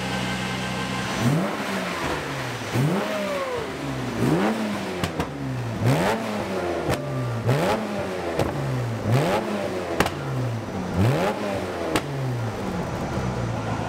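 Jaguar E-Type's fuel-injected straight-six idling on a chassis dyno, then revved in a long run of quick throttle blips, about one a second, each rising sharply and falling back, with a few sharp cracks among them. The engine is being run through its rev range while the new fuel-injection map is tuned for air-fuel ratio.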